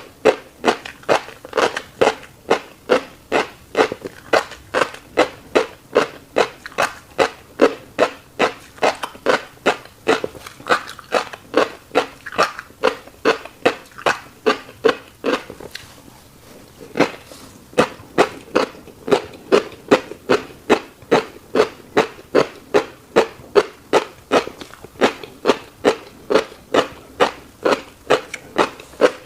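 Close-miked wet chewing of a mouthful of fish roe, about three sharp, smacking chews a second in a steady rhythm. There is a short pause about sixteen seconds in, then the chewing picks up again.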